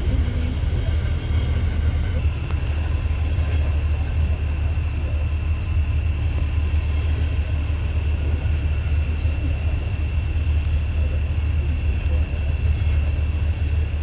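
A train running by with a steady low rumble; a thin, steady high-pitched tone joins about two seconds in and holds.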